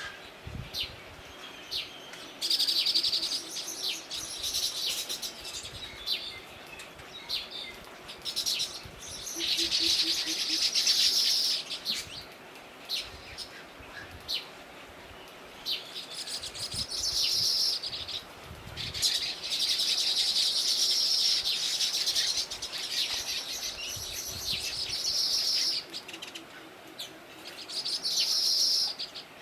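Small birds chirping in repeated bursts of rapid, high-pitched twittering, each burst lasting from about a second to several seconds, with short pauses between.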